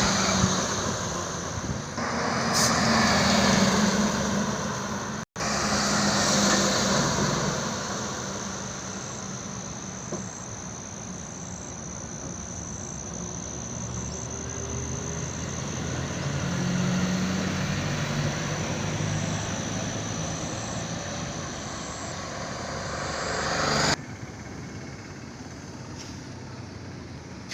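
Heavy trucks passing on a highway, their engine and tyre noise swelling and fading as each goes by, over a low engine hum. The sound cuts out for an instant about five seconds in and drops suddenly to a quieter level near the end.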